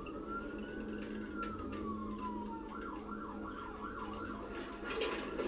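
Police car siren wailing slowly up and down, then switching about halfway through to a fast yelp of about four sweeps a second, over steady vehicle road noise. A short rush of hiss comes near the end.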